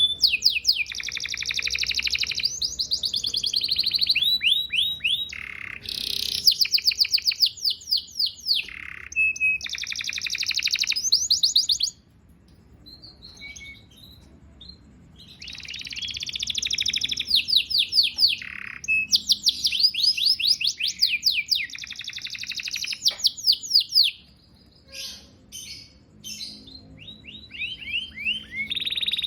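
Domestic canary singing: long phrases of fast, rapidly repeated trills and rolling notes, high-pitched, broken by two short quieter spells of scattered notes about twelve and twenty-four seconds in.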